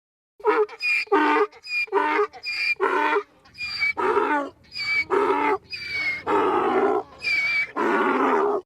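Lioness calling: a rapid series of about a dozen loud, short pitched calls, the later ones longer, cutting off abruptly.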